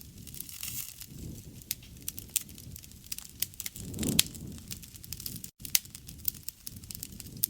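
Wood fire crackling and popping with many sharp snaps over a low rush of flames, with one louder pop about halfway through.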